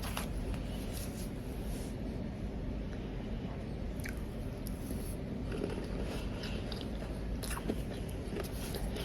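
Powdery ice being bitten and chewed close to the microphone: scattered crisp crunches over a steady low background hum.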